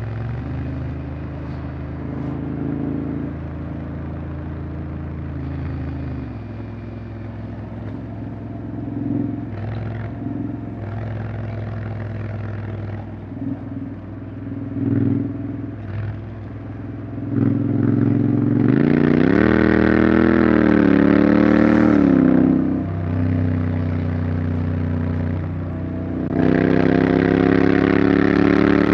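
Honda X-ADV 750 parallel-twin engine running under way, low and steady at first. About two-thirds through it opens up much louder, its pitch rising and falling for a few seconds before easing back. It opens up loud again near the end.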